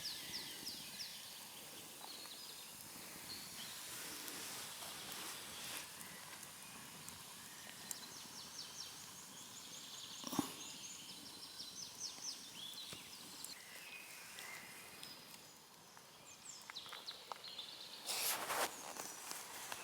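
Quiet forest ambience with songbirds singing repeated trilled phrases. A single sharp crack about ten seconds in, and a short rustling burst near the end.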